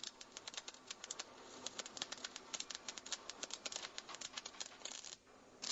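CO2 (MAG) welding arc run at too high an arc voltage: an irregular crackle of uneven clicks and pops, the sound of a long, unstable arc throwing more spatter. The crackle stops about five seconds in.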